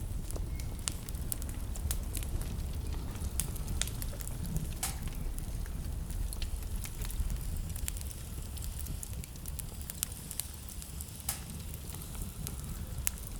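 Wood burning in a fireplace, crackling with frequent irregular sharp snaps and pops over a steady low rumble.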